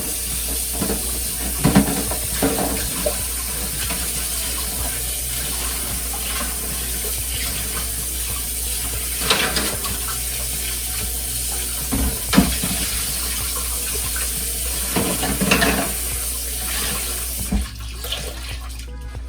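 Kitchen tap running into a sink, a steady rush of water with occasional clinks and knocks of dishes, shut off shortly before the end.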